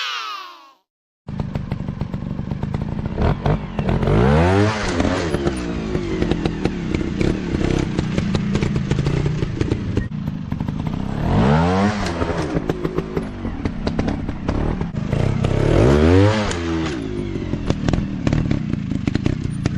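Dirt bike engine running hard, with rapid clattering firing; it revs up and eases off three times. The sound cuts in about a second in after a short silence.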